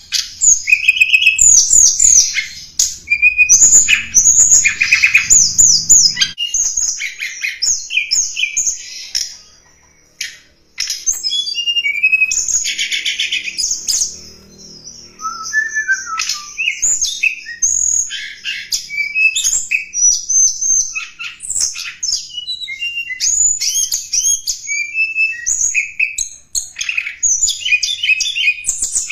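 Tledekan gunung singing a lure song: rapid, high-pitched chirps and short trills in quick succession, with a brief pause about ten seconds in.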